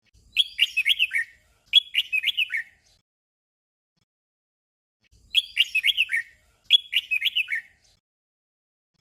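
Red-whiskered bulbul song: a short, bubbly warbled phrase given twice in quick succession (the 'double' phrase), then after a pause of about two and a half seconds the same doubled phrase again.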